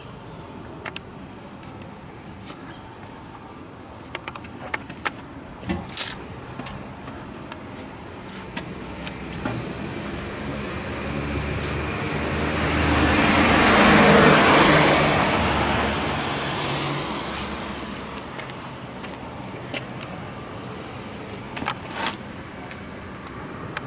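A car drives past, its engine and tyre noise swelling to a peak about midway and then fading away. Scattered sharp clicks and taps come before and after it.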